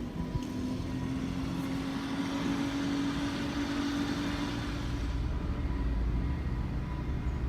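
Alco S-6 diesel switcher locomotive running: a steady hum with a hiss that swells and fades in the middle, then a deep rumble building near the end.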